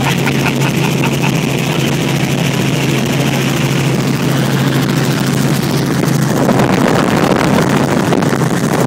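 Helicopter in flight heard from inside the cabin: the engine and rotor make a loud, steady drone with a constant low hum.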